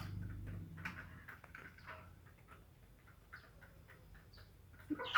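Faint, irregular tapping and clicking of birds pecking at food, scattered over several seconds. A low hum dies away about a second in.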